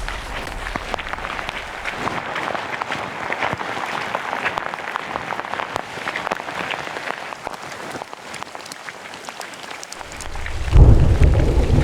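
Rain pattering on leaves: a dense, even spatter of many small drop ticks. Near the end a loud low rumble comes in over it.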